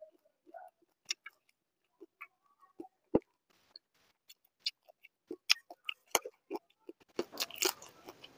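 Close-miked mouth sounds of a man eating water rice and fried sides by hand: wet chewing and lip smacks heard as scattered clicks, turning into dense crunching about seven seconds in.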